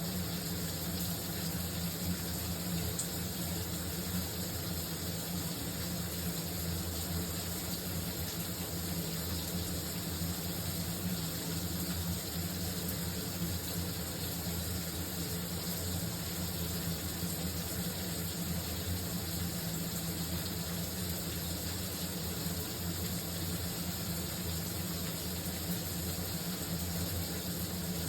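Shower water running steadily, an even hiss of spray with a low steady hum underneath.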